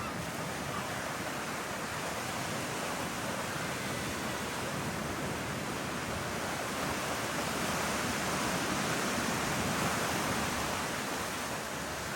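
Ocean surf washing on the beach: a steady rushing noise that swells a little toward the end.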